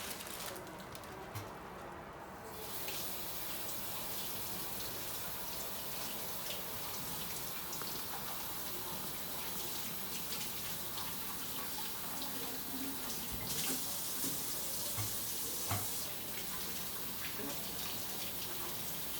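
Water running steadily in a kitchen, starting about two and a half seconds in.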